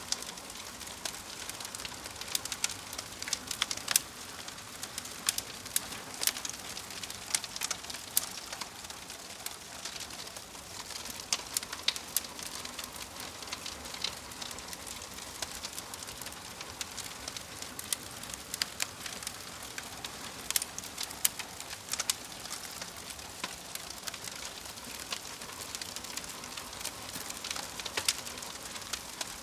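Wood fire burning in a fireplace, its logs crackling with many irregular sharp pops over a steady soft hiss.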